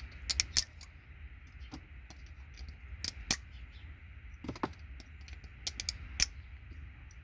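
Sharp plastic clicks and snaps, about eight at irregular intervals, as RJ45 jack modules are pried and popped out of a network patch panel.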